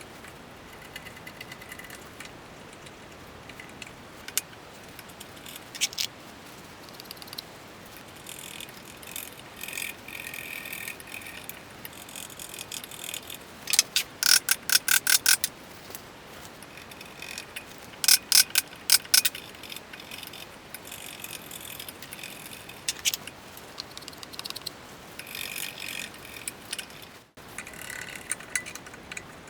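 Workshop hand-tool noise: a few scattered sharp knocks, with two bursts of rapid clicking, about eight a second, near the middle.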